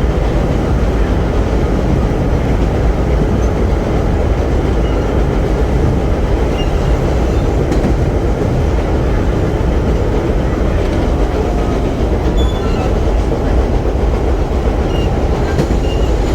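Vintage R1–R9 subway cars running on the track, heard from aboard: a steady, loud rumble of wheels on rail.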